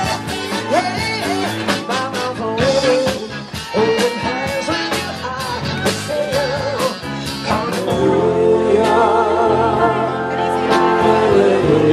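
A live band playing a song with a singer, drums and guitar. About eight seconds in, the drum hits thin out and the voices hold long notes with vibrato over a steady chord.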